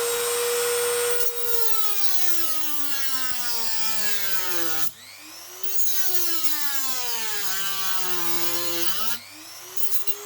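Small high-speed power tool cutting a metal coupling hook off a model wagon's bogie: a motor whine that sinks slowly in pitch as it bogs down under load, picks back up about halfway through, sinks again, and rises back near the end.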